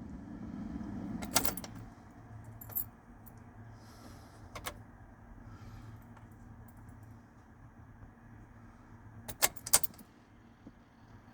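Ignition keys jangling and clicking in a 2005 GMC Sierra's ignition switch as the key is turned, with a few sharp clicks and a quick double click near the end over a faint low hum. No fuel pump priming is heard, which the owner ties to the truck's no-start.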